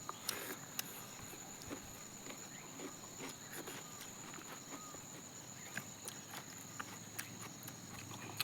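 Chewing and soft irregular mouth clicks of someone eating a fried chicken leg, over a steady high-pitched drone of insects.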